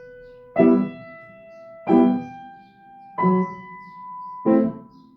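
Piano played slowly with both hands: four chords struck about one and a third seconds apart, each left to ring and fade before the next.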